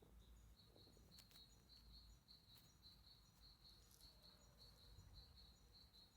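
Faint high chirps from a small wild creature, repeated evenly at one pitch about three or four times a second, with a few soft clicks among them.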